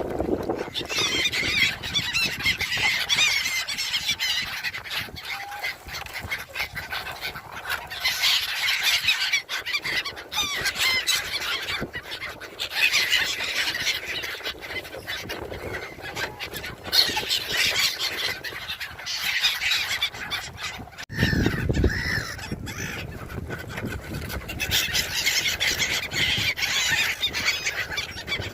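A large flock of gulls calling, a dense chorus of overlapping harsh cries that swells and fades in waves as the birds crowd in for food. About two-thirds of the way through there is a brief low rumble.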